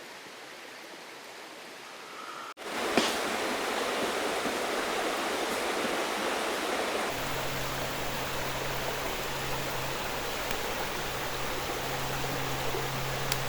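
Steady rushing of flowing water. It jumps louder after a brief dropout about two and a half seconds in, and a low steady hum joins about seven seconds in.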